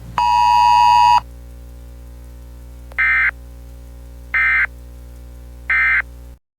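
Weather radio audio: a steady electronic beep stops about a second in, then three short raspy data bursts follow about a second and a half apart, the EAS end-of-message tones that close the alert, over a constant low hum until the audio cuts off just before the end.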